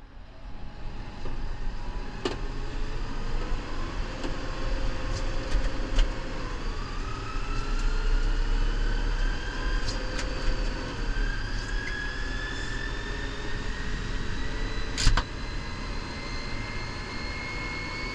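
New Holland Powerstar 75 tractor's diesel engine running steadily, with a whine that slowly rises in pitch and a few sharp knocks, about two seconds in, six seconds in and fifteen seconds in.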